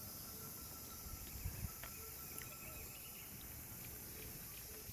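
Faint outdoor ambience with a steady high insect drone, and a couple of soft low thumps about a second and a half in.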